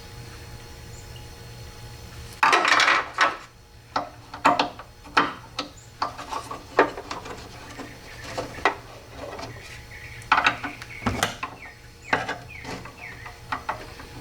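Clinks, clicks and knocks of tools and metal parts being handled during work on a car door's window regulator, over a steady low hum. A louder burst lasting about a second comes a couple of seconds in.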